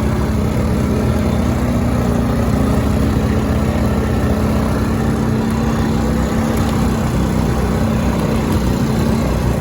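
Quad bike engine running steadily at an even pitch, with a low rumble underneath.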